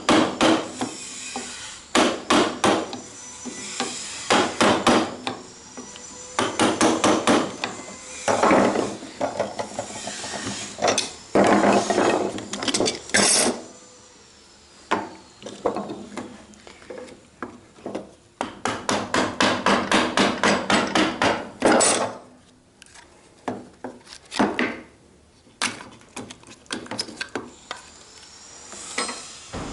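Mallet driving a mortise chisel into wood in runs of rapid blows with short pauses between, chopping out the mortise until it is cut all the way through.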